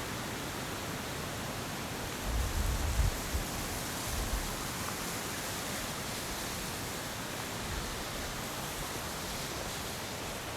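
Steady rushing of flowing water, an even hiss with no pauses. A few low bumps break in about two to four and a half seconds in.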